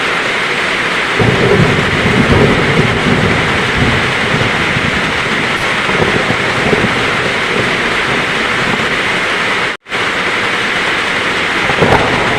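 Heavy rain pouring steadily, with a low rumble of thunder swelling from about a second in and fading over the next few seconds. The sound cuts out for an instant about ten seconds in.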